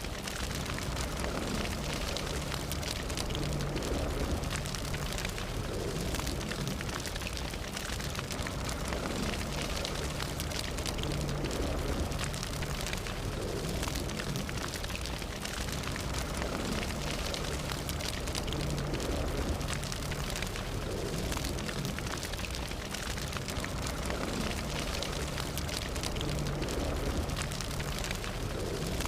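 Fire burning steadily: a dense bed of crackling and popping over a low roar, with no pauses.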